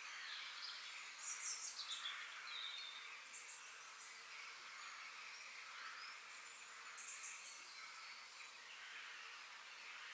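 Forest ambience of birds calling: short high chirps about a second in and again around seven seconds, and a falling whistled note, over a faint steady hiss of insects.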